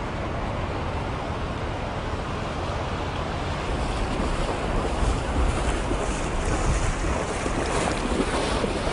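Fast-flowing floodwater rushing steadily, a little louder from about four seconds in.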